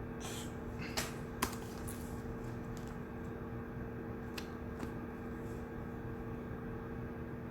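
Shared study room ambience: a steady low hum with two faint held tones, broken by a short rustle and a few small sharp clicks and taps, the loudest about a second and a half in.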